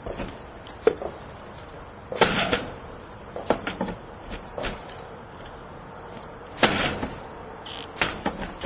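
A burglar-resistant window screen being struck and yanked as someone tries to force through it. It gives scattered sharp knocks and rattles, about six in all, the loudest about two seconds in and again past the middle.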